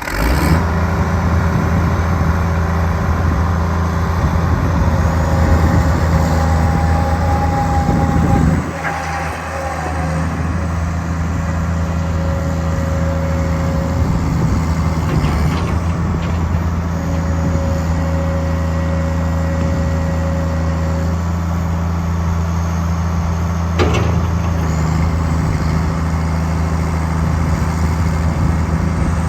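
Case 1080B excavator's diesel engine running steadily. Its level drops briefly about eight and a half seconds in, then settles again, with a faint steady whine coming and going. There is a sharp click near the end.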